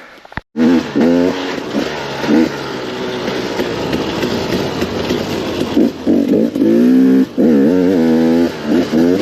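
KTM 250 XCW two-stroke dirt bike engine running loud, its revs rising and falling in repeated throttle blips. The engine cuts in suddenly about half a second in.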